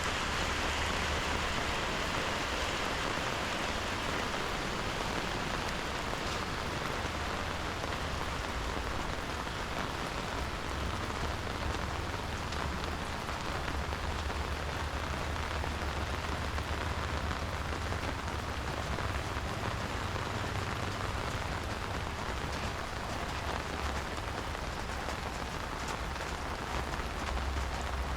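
Steady rain falling, an even hiss that does not let up, with a low rumble underneath.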